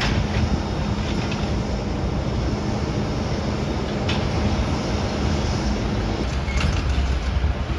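Steady low rumble of a moving vehicle, with a steady hum that stops about six seconds in and a few faint clicks.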